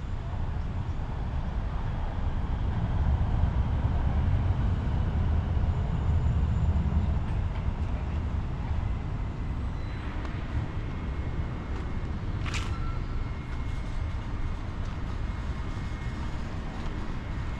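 Low steady mechanical rumble that swells for a few seconds, with one short sharp squeak about twelve seconds in, followed by a faint high whine.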